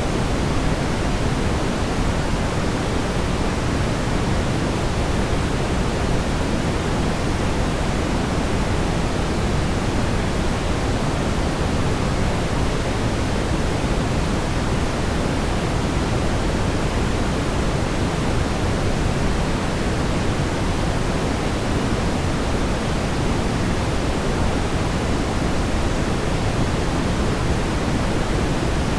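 Steady brown noise: an even, unchanging hiss-like rumble, strongest in the low end and thinning toward the highs.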